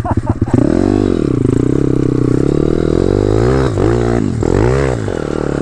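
A 190cc single-cylinder four-stroke pit bike engine firing at low revs, then revving up about half a second in and rising and falling several times as the throttle is worked.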